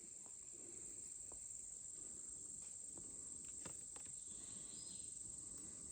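Insects trilling steadily in one high, even note, with a few faint clicks.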